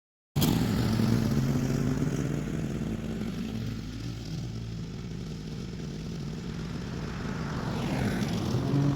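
Toro HDX 30-inch self-propelled mower's engine running, cutting in abruptly just after the start; it eases off through the middle and grows louder again near the end.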